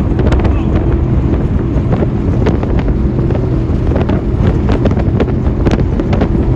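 Offshore performance powerboat engines running hard at speed, a steady low drone, with wind buffeting the microphone.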